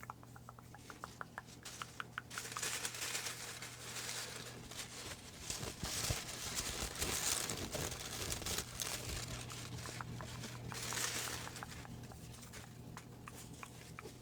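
Paper slips rustling and crinkling as a hand rummages in a hat full of folded names, with small crackles in the first couple of seconds.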